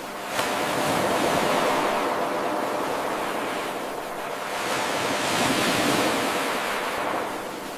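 Ocean waves washing in, swelling and easing twice. There is a sudden click and jump in level near the start where the 8-second recording loops.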